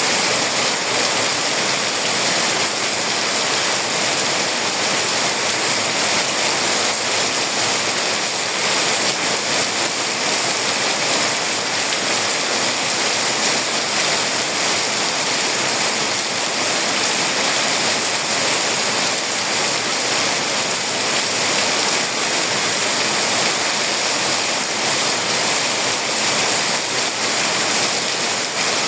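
Heavy rain pouring down in a steady, even downpour with no letup.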